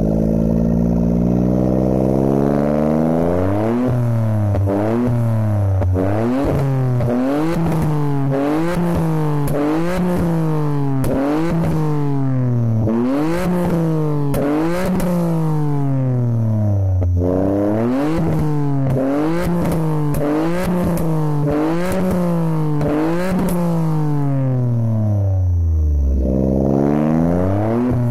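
Suzuki Alto Works' three-cylinder engine through a catalyst-delete straight pipe and Power Getter muffler, revved again and again in quick blips about once a second. It sinks back toward idle about two-thirds of the way through and again near the end before climbing once more.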